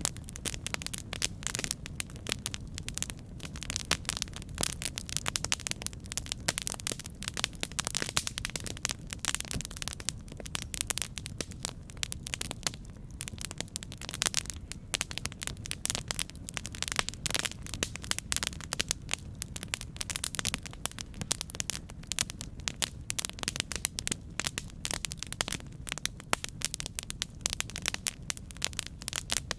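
Campfire burning: a steady low rumble with dense, irregular crackles and pops from the burning wood.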